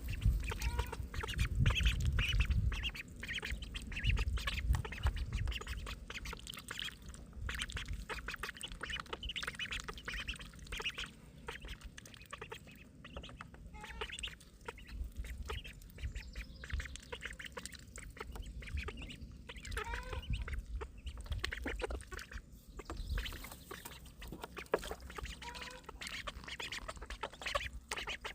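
Three-week-old call ducklings peeping and quacking in a rapid run of many short, high calls. A low rumble sits under them in the first few seconds.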